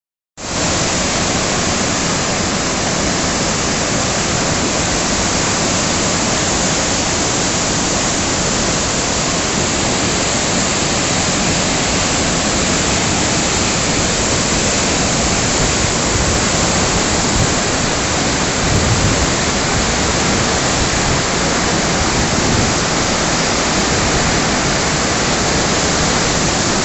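Steady rushing of a river in flood, swollen by typhoon rain and dam discharge: a loud, even noise that does not let up.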